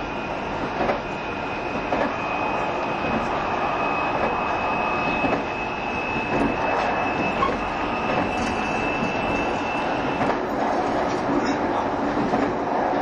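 Running sound inside a JR Shikoku 7200 series electric train car at speed: a steady rumble of wheels on rail with faint clicks about once a second. A thin high-pitched whine stops about ten seconds in.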